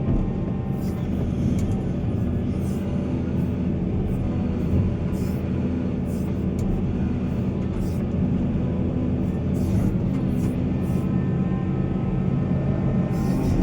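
Heavy diesel engine of mining machinery running steadily at a working load, with brief high rasps every so often.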